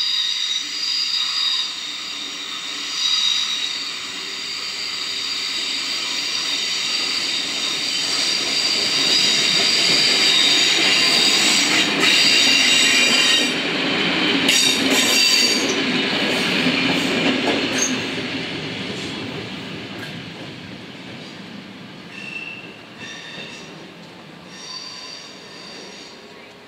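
A Dutch Mat'46 electric multiple unit approaches and passes over a level crossing, loudest about halfway through with rail and wheel noise. A steady high-pitched ringing sounds over it for the first half, then fades as the train moves off. A few short high tones come near the end.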